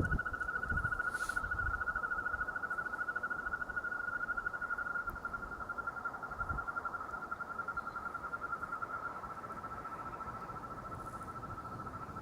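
Frogs calling: one continuous, high, pulsing trill held at a steady pitch, growing a little fainter after about halfway.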